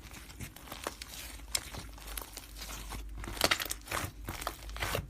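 Slime being squished and poked in the hands, giving a string of irregular crackling, clicking pops.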